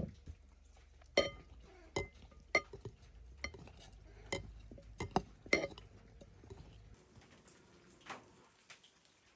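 Metal utensils and cookware clinking: about seven sharp knocks with a brief ring in the first six seconds, irregularly spaced, then a few fainter ones.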